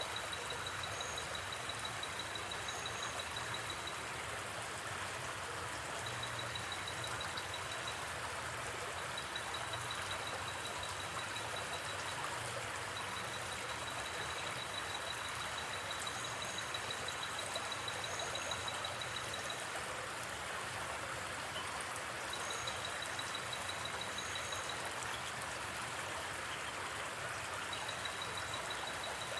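Steady rush of a gently flowing river. A rapid, high trill comes and goes over it in stretches of a few seconds, with short higher chirps in pairs now and then, like night insects.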